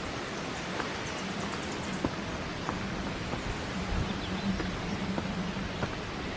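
Steady wind rushing through the trees, with scattered faint clicks and a short run of high, rapid ticks early on.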